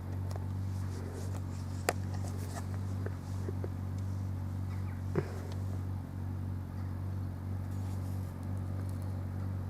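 Car engine idling, heard from inside the cabin as a steady low hum, with two small clicks, about two and five seconds in.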